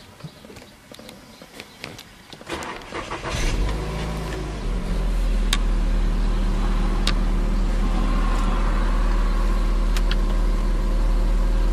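Volkswagen Golf petrol engine started with the key: the starter turns briefly about two and a half seconds in, the engine catches, and it settles into a steady idle hum. A few light clicks follow as buttons on the dashboard radio are pressed.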